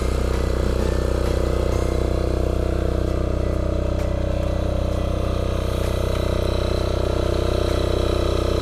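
Engine of a Yanmar A-10V walk-behind cultivator running steadily at an even speed.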